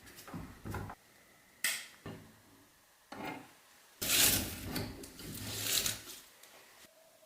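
Work sounds on a restored tobacco cutter: a few short scrapes and knocks, then a louder rubbing scrape lasting about two seconds, beginning about four seconds in.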